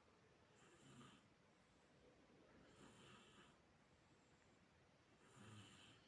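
Near silence, with faint soft rubbing about every two seconds as hands knead ghriba cookie dough in a bowl.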